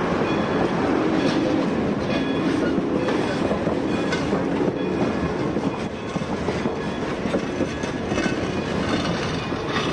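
Train rolling past, its wheels clicking over rail joints, with faint high squeals from the wheels. The sound eases slightly about six seconds in.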